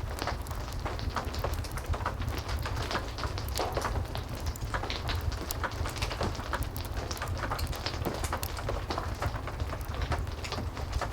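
Heavy rain falling steadily, with a low rumble and many small sharp crackles and pops of a wood fire scattered through it.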